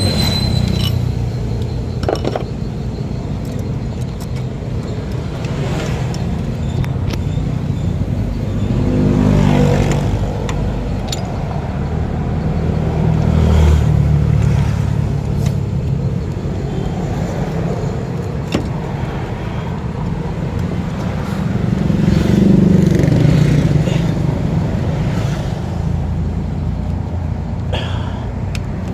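A car engine running steadily, rising in pitch and level a few times, about a third of the way in, near the middle and about three-quarters through, with occasional clicks.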